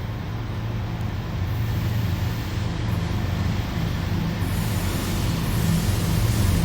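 Train crossing a railway bridge, heard from underneath: a steady low rumble and drone from the vibrating bridge, growing gradually louder.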